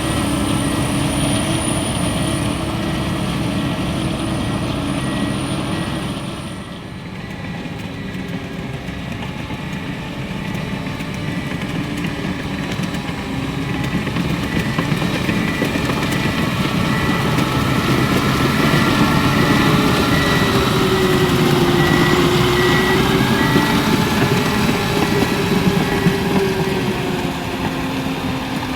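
PistenBully 600 Polar SCR snowcat's Mercedes-Benz OM 460 LA 12.8-litre inline-six turbodiesel working under load while grooming. A high turbo whistle is heard for the first six seconds or so, then stops as the engine eases off briefly. The machine then builds louder again, with the whine of the hydraulic pumps rising and falling.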